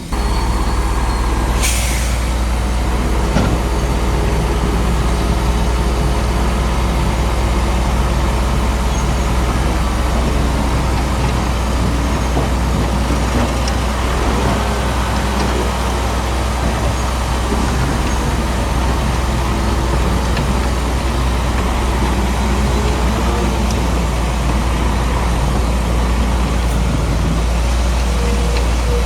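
Heavy diesel earthmoving machinery running steadily under load, a deep constant drone with rough mechanical noise over it.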